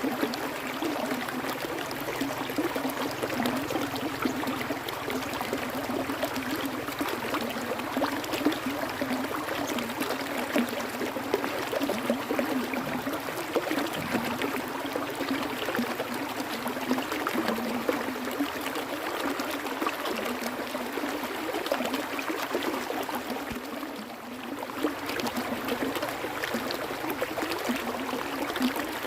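Water flowing and trickling in a stream, a steady babbling rush that eases slightly for a moment about three-quarters of the way through.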